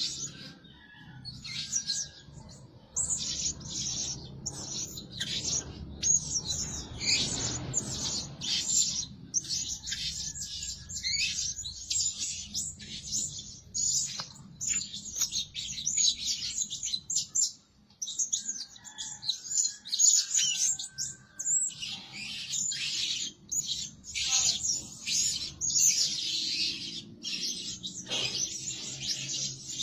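Blue-crowned hanging parrot calling: rapid runs of high, thin chirps, broken now and then by short pauses.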